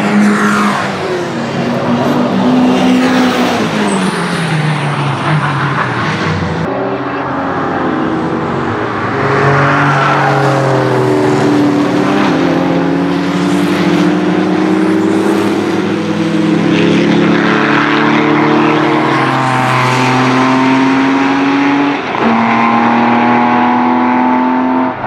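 Lancia Delta Integrale race car's turbocharged 2.0-litre 16-valve four-cylinder engine under hard acceleration on track. The pitch climbs and drops back with each gear change, and falls away as a car goes by early on. There is an abrupt change about six and a half seconds in.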